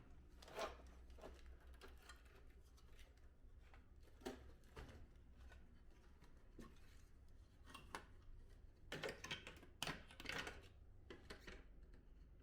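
Scattered light clicks and knocks of plastic and metal parts being handled during reassembly of an air-conditioner indoor unit, with a short burst of rattling clatter about nine seconds in, over a low steady hum.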